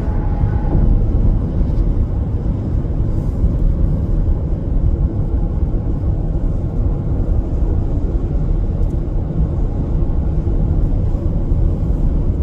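Steady low rumble of a Freightliner Cascadia semi truck: engine drone and road noise, even throughout.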